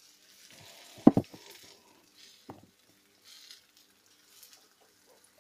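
Raw paratha dough sizzling in hot oil in a nonstick frying pan, the hiss coming and going. A sharp double knock about a second in and a lighter knock about two and a half seconds in are the loudest sounds.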